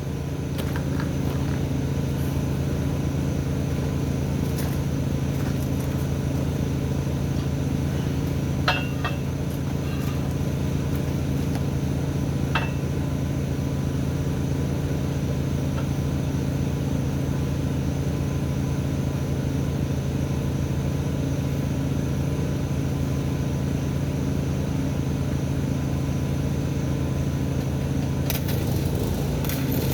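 A steady low machine hum runs throughout, with a few short sharp clicks.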